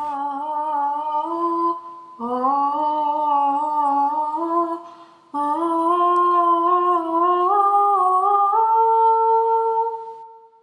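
A voice humming a tune in three long phrases of held notes, with short breaks between them. The last phrase climbs and ends on a higher, held note.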